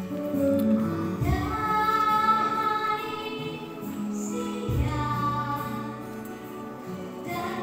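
A child singing long held notes over instrumental accompaniment, with low bass notes coming in twice.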